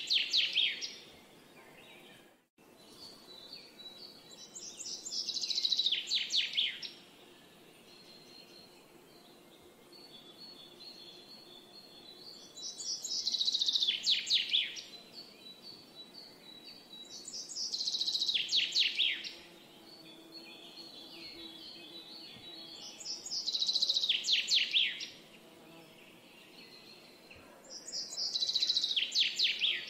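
A songbird repeating the same song about every five seconds. Each song is a fast trill that falls in pitch and lasts a second or two, six times in all, with fainter chirps from other birds in between.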